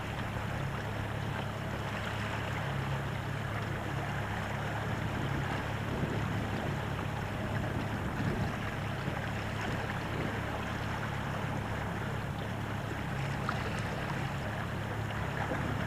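Steady water and wind noise aboard a small sailing boat (a Drascombe Lugger) moving in light wind, with a steady low hum underneath.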